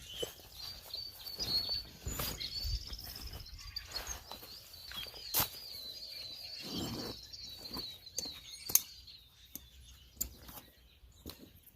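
A songbird singing a long, continuous warbling song, with a few sharp clicks and knocks around it.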